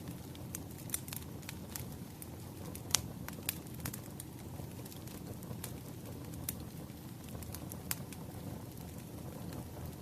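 Wood fire burning: a steady low rumble of flames with irregular sharp crackles and pops, the loudest about three seconds in.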